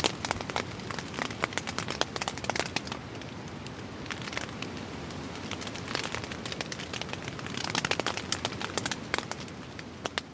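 Rain and wind on a tent: the fabric crinkles and rattles, with irregular pattering ticks that come in gusty clusters over a steady hiss.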